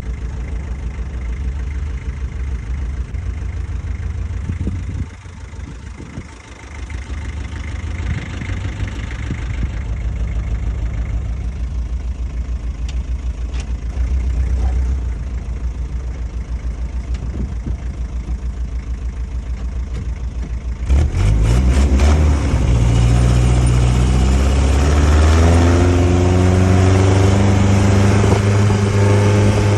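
Land Rover Defender 110 engine running steadily at low revs. About two-thirds of the way through it gets suddenly louder, and the engine note climbs over a few seconds as it revs up, then holds steady at higher revs.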